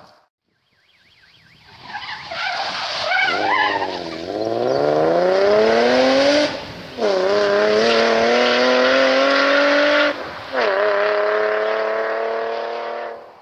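Rally car engine at full throttle, rising in pitch as it accelerates. Twice the sound cuts briefly and comes back lower in pitch: quick upshifts. It fades near the end.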